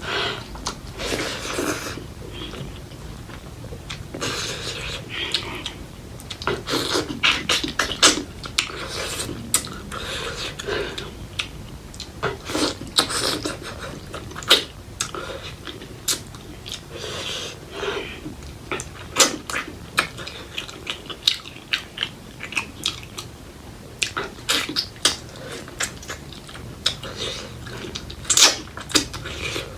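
Close-miked chewing of spicy pork leg curry with rice: irregular wet mouth smacks and clicks, several a second in places, with short pauses between.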